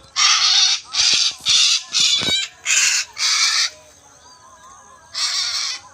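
Parrot giving harsh, raspy squawks: six in quick succession, then one more near the end.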